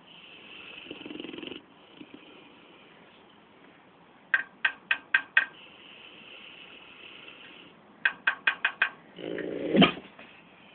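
A Dogue de Bordeaux breathes heavily and snores in its sleep. There are two runs of quick sharp clicks, about four a second, and a louder breath with a sharp click near the end.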